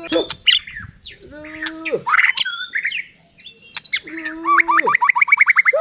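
White-rumped shama singing a loud, varied song of gliding whistled phrases and low swooping notes, with a fast run of repeated notes near the end.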